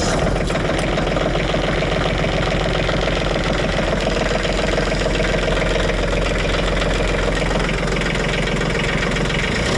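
Kubota B-series compact tractor's diesel engine running steadily with a dense diesel clatter, just after a cold start at about −9 °C on summer diesel fuel.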